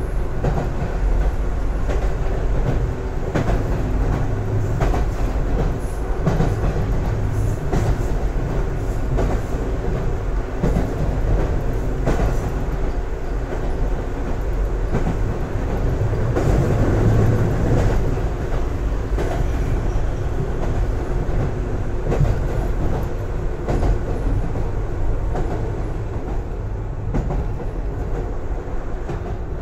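JR 113 series electric train running at speed, heard from inside the passenger car: a steady low rumble of wheels and running gear, with wheel clicks over rail joints now and then.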